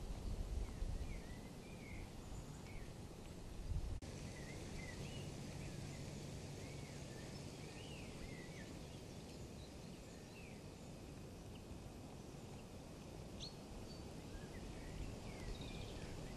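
Birds chirping in short notes that slide up and down, scattered throughout, over a low rumble of outdoor noise on the microphone that is strongest at the start and near the end.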